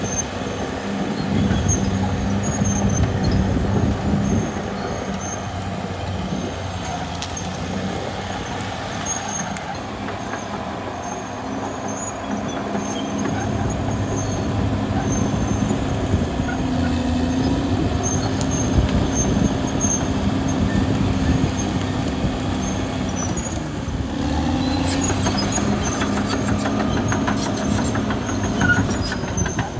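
Caterpillar D6R XL crawler bulldozer's diesel engine running under load, with the squealing and clanking of its steel tracks. The engine pitch rises briefly about halfway through.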